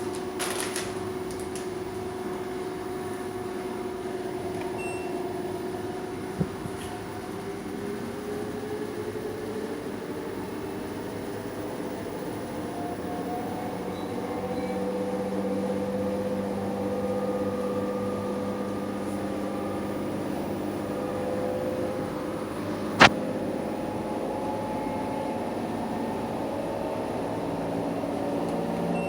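LG FV1409S3W front-loading washing machine in its maximum-speed spin: a steady motor-and-drum whine that rises in pitch partway through as the drum speeds up. There is one sharp click about 23 seconds in. The spin runs smooth, with no knocking.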